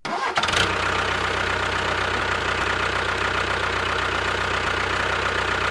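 Engine idling steadily with a fast, even knocking beat.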